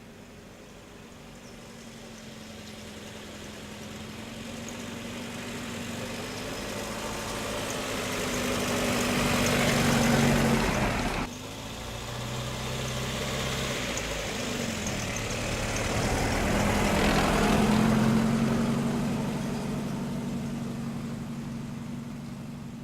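A car engine running as the vehicle approaches and drives past, growing louder to a peak about ten seconds in and then cutting off suddenly. It then comes up again to a second pass and fades away.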